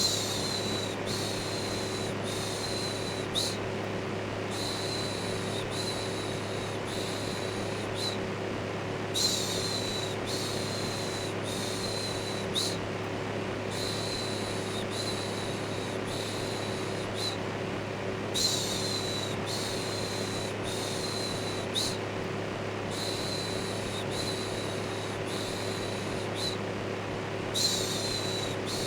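Electric fan running steadily, a constant whooshing noise with a low motor hum. Over it a repeated "shhh" shushing sounds in runs of quick strokes about one a second, pausing briefly every few seconds.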